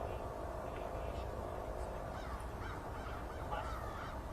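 Birds calling repeatedly, short curving cries, over a steady low rumble.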